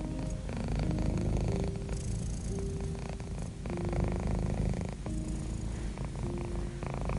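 Domestic cat purring: a continuous low, rumbling purr that swells and eases with each breath, about every second or so. Soft held notes of gentle background music sound over it.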